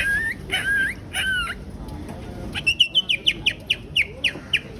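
Tree leaf blown as a reed whistle, mimicking animal calls: three whining, bending calls in the first second and a half, then after a short pause a quick run of short, falling chirps, about six a second.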